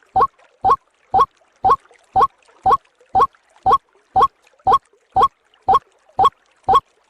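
White-breasted waterhen lure call: a short, pitched note repeated evenly about twice a second.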